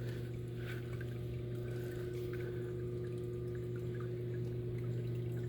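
Hot tub pump running with a steady electric hum, with water moving.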